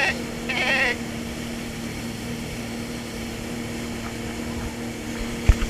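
Jet ski engine running at a steady speed, an even drone with a constant pitch, with a sharp low thump near the end.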